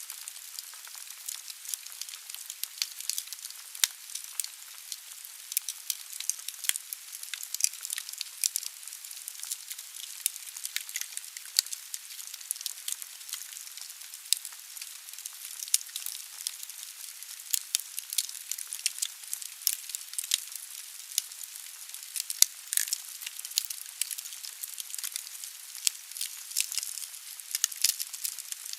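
Wood fire burning in a fireplace: a steady hiss with dense, irregular crackles and pops of burning logs.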